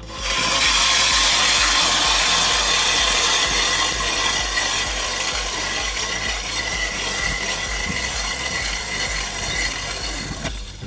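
Ice auger boring through thick lake ice, a steady grinding hiss with a faint whine. It starts abruptly and stops shortly before the end. The hole is being drilled to measure the ice thickness.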